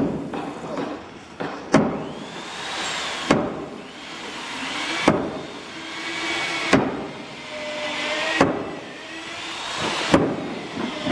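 Hand tool striking timber in a steady rhythm, one sharp blow about every second and a half to two seconds, with a wavering whine from a machine or tool between the blows.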